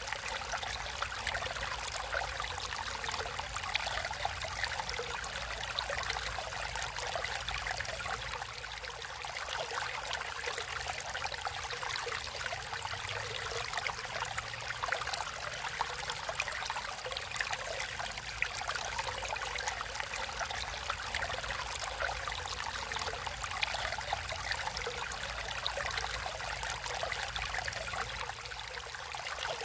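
Natural stream water flowing and trickling steadily, a dense splashing babble that stays even throughout.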